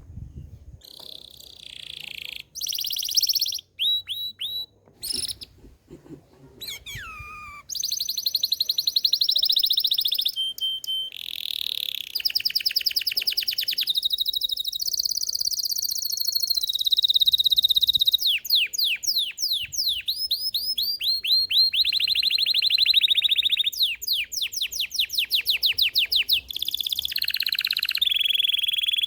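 Belgian canary singing a long song of fast trills and rolls. The song comes in short phrases at first, with a downward-sliding note about seven seconds in. From about eight seconds on it runs without a break, with rapid repeated sweeping notes later in the song.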